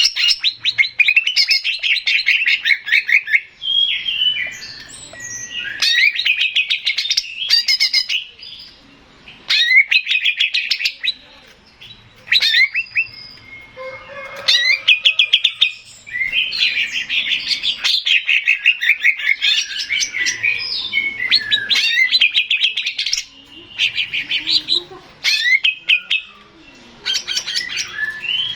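Male cucak ijo (green leafbird) singing: phrases a few seconds long of rapid, high-pitched repeated notes, broken by short pauses.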